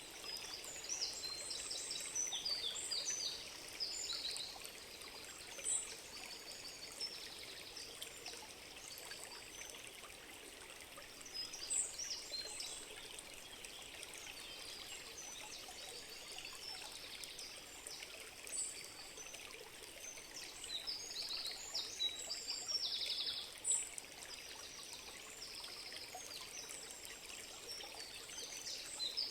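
Steady running water with small birds singing over it: repeated rapid trills and short high chirps come and go throughout.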